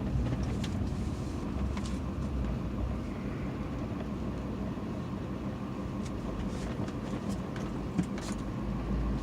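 Steady low rumble of a car driving, engine and road noise heard from inside the car, with one short knock about eight seconds in.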